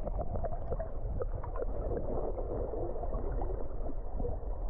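River water gurgling and sloshing, heard muffled with the microphone underwater: a low rumble with many small bubbling clicks and plops, and the high sounds cut away.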